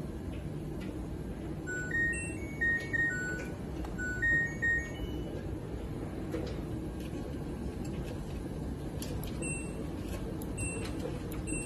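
LG front-loading washing machine's control panel chiming: two short melodic jingles of several notes, then three single short beeps near the end, as its buttons are pressed.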